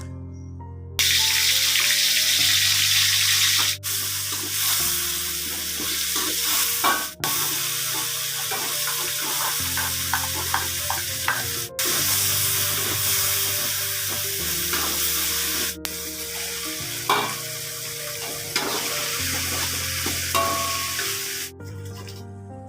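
Food frying and sizzling loudly in a hot pan, with a steady hiss and a few light stirring clicks. The hiss breaks off for an instant four times. Soft background music with held chords plays underneath.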